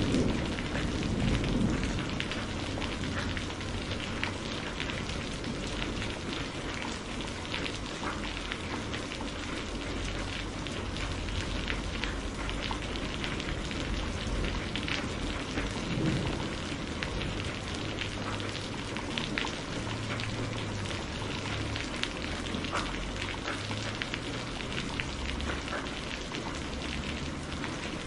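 Steady rain falling, with a low thunder rumble dying away in the first couple of seconds and scattered sharp crackles from a burning wood fire.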